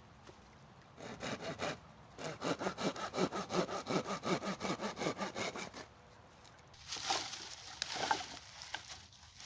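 Hand saw cutting a wooden branch in quick back-and-forth strokes: a few strokes about a second in, then a steady run of about five strokes a second for some four seconds. It stops, and a rougher scraping rustle of wood follows near the end.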